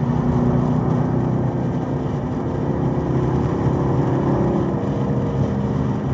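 Chevrolet Camaro ZL1 1LE's supercharged 6.2-litre V8 running steadily at about 3,500 to 4,000 rpm on the track, its pitch rising slightly about halfway through.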